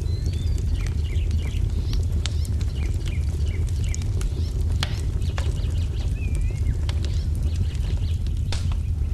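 Wood fire crackling, with sharp pops scattered through, over a steady low rumble. Birds chirp now and then.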